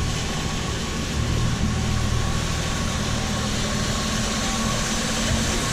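A 1967 Ford Mustang's straight-six engine idling steadily and smoothly while warming up, a low even purr.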